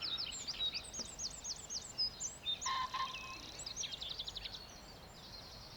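Songbirds singing in a dawn chorus, with quick, high, repeated downward-sweeping notes. Near the end comes a single sharp bang in the distance, which the listeners take for a gun going off.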